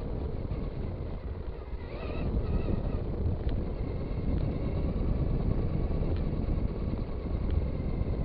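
Traxxas Stampede 2WD RC car driving, heard as a steady low rumble of tyres and motor with wind noise on the microphone, a faint higher whine showing briefly about two seconds in.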